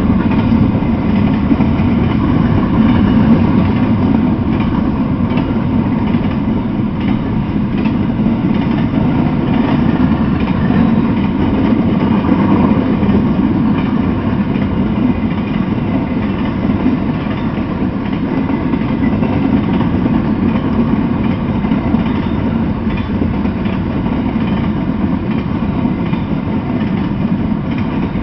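Freight train of intermodal container well cars rolling past on the track: a loud, steady rumble that holds throughout.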